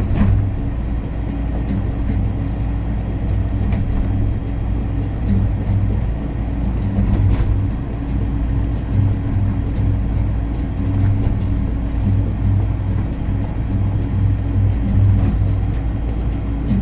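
Skyrail suspended people-mover car in motion: a steady low rumble with a hum that swells and fades.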